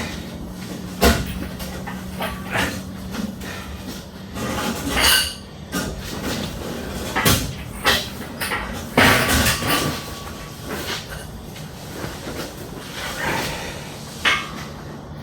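Irregular metal clanks, knocks and scraping while the AMC 304 engine is being worked out of the engine bay, over a steady low hum.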